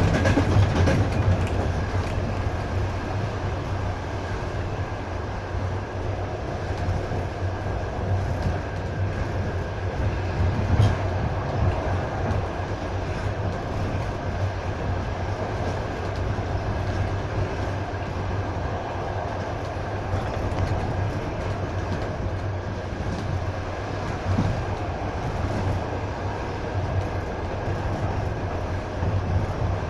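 Passenger train running along the track, heard from a passenger carriage: a steady rumble of wheels and carriage, with a faint steady high hum.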